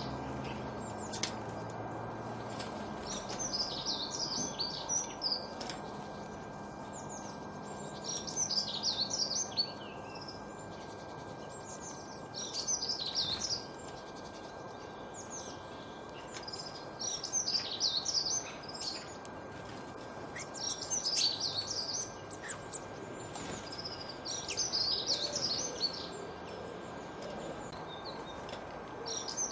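A songbird singing short, quick phrases of high chirps, repeated about every four seconds, over a steady background hiss with a faint constant tone.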